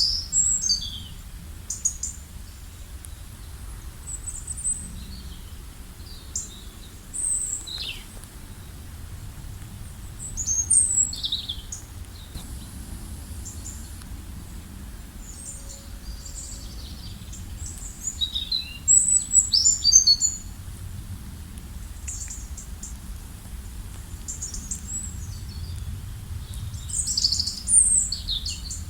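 Several small birds chirping and calling, with short high descending notes coming in clusters, the busiest bouts about ten, nineteen and twenty-seven seconds in, over a steady low background rumble.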